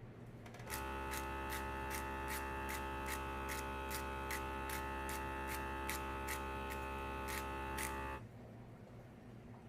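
A small electric motor runs with a steady hum and a regular click about three times a second, starting abruptly about a second in and cutting off abruptly near the end.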